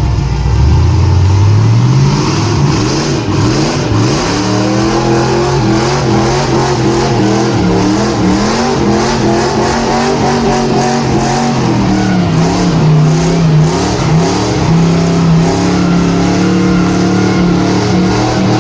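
Methanol-fuelled LS V8 engine of a Nissan S13 monster truck, revving up in the first two seconds, then running with its note rising and falling as it is driven, settling to a steadier pitch in the second half.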